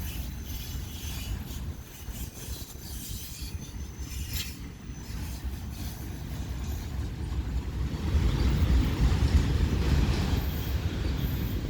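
Freight train cars rolling past, a steady low rumble with brief high wheel squeals in the first half. It grows louder about eight seconds in.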